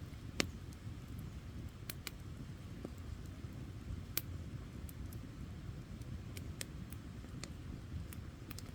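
Wood campfire burning: a low steady rumble with scattered, irregular sharp crackles and pops, the loudest about half a second in.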